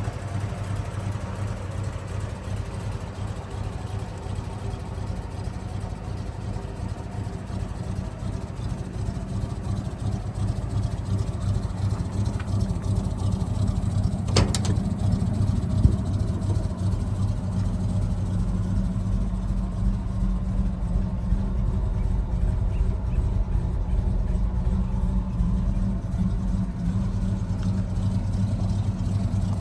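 1959 Chevrolet Apache's original 235 cubic-inch inline-six engine idling steadily, heard with its exhaust note, gradually getting a little louder over the first half. A single sharp click comes about halfway through.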